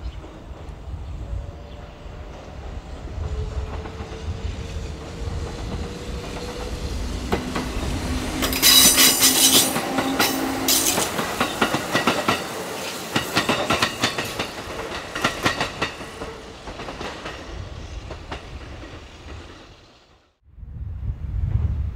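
Kintetsu electric train running through the station. It grows to a loud clatter of wheels over rail joints and points, with a steady humming tone, then fades. The sound cuts off abruptly about 20 seconds in.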